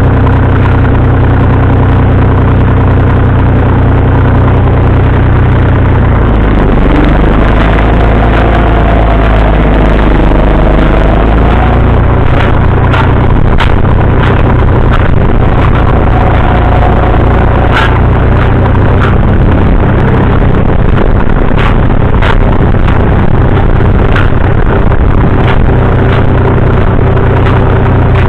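Tractor engine running steadily. Its note shifts lower about six seconds in, and from about twelve seconds on, sharp clicks and rattles come through over it.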